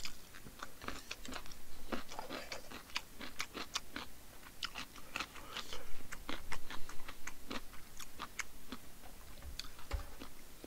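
Close-miked mouth sounds of a person eating: chewing and crunching kkakdugi (cubed radish kimchi) and Spam kimchi stew, with many quick sharp wet clicks and crackles.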